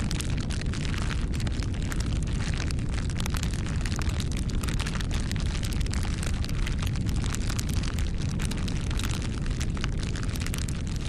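Wood fire burning, a steady low rumble of the flames with frequent sharp crackles and pops throughout.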